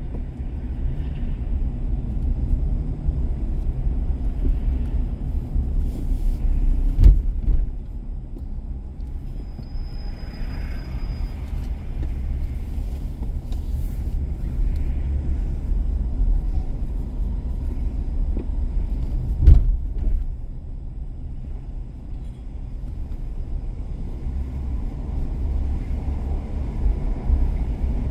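Car driving on a city street: a steady low road and engine rumble, with two sharp thumps, one about a quarter of the way in and one about two-thirds of the way in.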